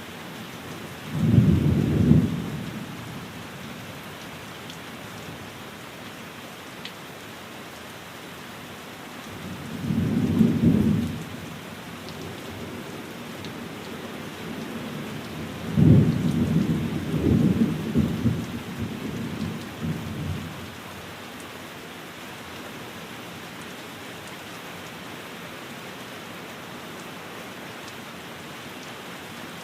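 Steady rain, with three low rumbles of thunder: a short one about a second in, another around ten seconds in, and a longer one from about sixteen to twenty seconds.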